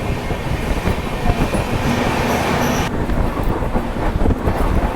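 Passenger train in motion: the loud, steady noise of its wheels running on the rails.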